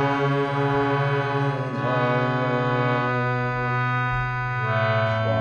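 Harmonium playing sustained held chords, its reeds sounding steadily, with the chord changing about two seconds in and again near the end.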